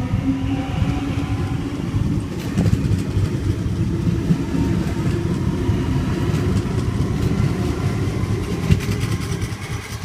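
Sydney Trains Waratah (A-set) electric train at the platform, giving a steady low rumble with scattered faint clicks.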